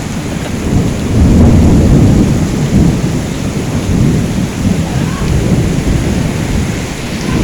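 Thunder rumbling over heavy rain. The deep rumble swells about a second in, is loudest for a second or so, then rolls on more softly under the steady downpour.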